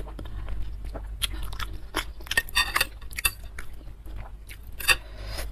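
Close-miked eating of bakso soup with rice vermicelli: wet chewing and noodle slurping, heard as irregular mouth smacks and clicks, with a denser run about halfway through, over a low steady hum.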